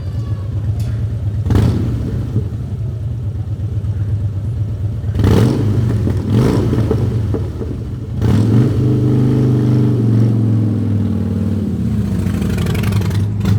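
Supermoto motorcycle engine idling and being revved: short sharp blips about one and a half, five and six and a half seconds in, then held at higher revs for a couple of seconds from about eight seconds in before dropping back to idle.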